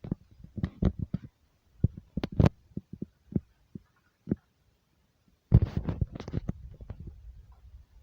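Irregular knocks and rattles over a low rumble, with a louder clatter about five and a half seconds in.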